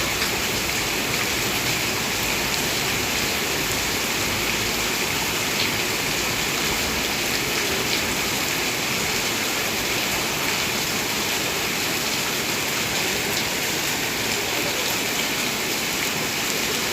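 Heavy rain pouring down, a steady dense hiss of falling water with scattered drops ticking on nearby surfaces.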